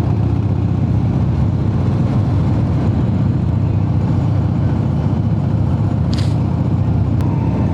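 Harley-Davidson V-twin motorcycle engine running steadily at low speed, heard from the rider's own bike, with a short high-pitched sound about six seconds in.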